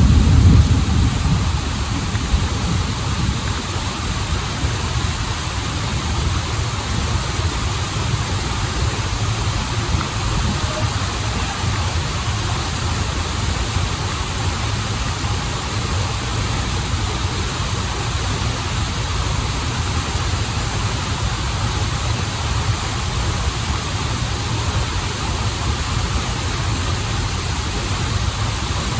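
Waterfall and stream water running steadily, a continuous even noise with a deep low rumble, a little louder in the low end during the first second.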